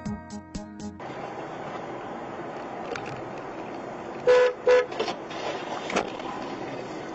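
A car horn honks twice in quick succession, two short loud blasts, over steady traffic noise; a burst of music ends about a second in.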